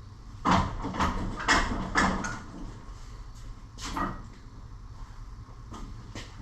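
Metal clanks and knocks from the steel snowplow mount being worked into place. There are four sharp clanks about half a second apart in the first two seconds and one more about four seconds in.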